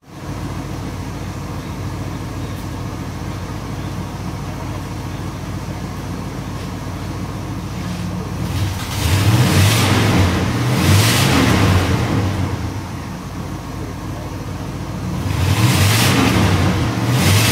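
1976 Oldsmobile 88's 455 cubic-inch V8 idling steadily after new vacuum lines were fitted. It is revved up twice, first about eight seconds in and again near the end, settling back to idle in between.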